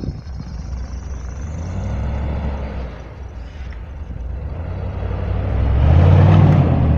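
Off-road 4x4 engine revving up and dropping back, with a rev about two seconds in and a louder, longer one near the end.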